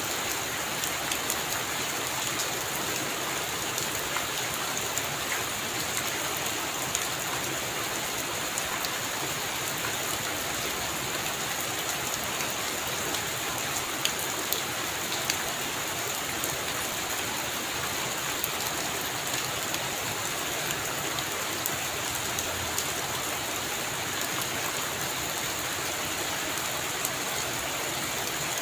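Heavy rain falling steadily: a dense, even hiss with scattered sharp ticks of individual drops, and no thunder.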